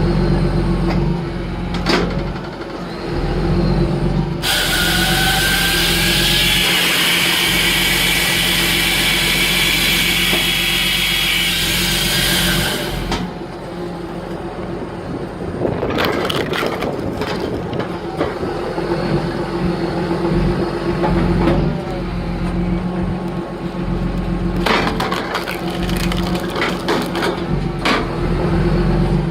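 John Deere 8530 tractor's diesel engine running steadily under load while powering a log splitter, with wood cracking and splitting in bursts about halfway through and again near the end. For several seconds early on a loud hiss with a rising whine rides over the engine.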